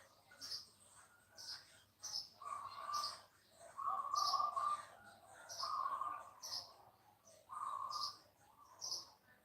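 Birds calling: one gives a short high chirp about twice a second throughout, while louder, lower held notes of half a second to a second come every couple of seconds.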